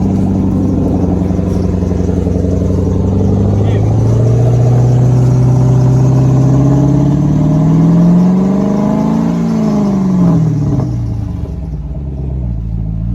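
Chrysler 300C's 5.7 Hemi V8 with the exhaust resonators removed, revved: held at raised revs, climbing to a peak about nine seconds in, then dropping back to idle near the end. Very loud.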